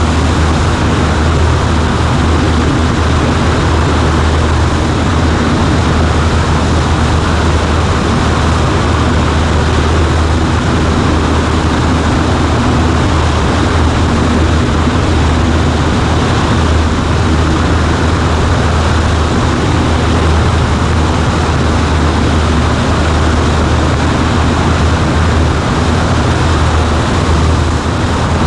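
Cessna 140A light plane's piston engine and propeller droning steadily at an unchanging pitch and level.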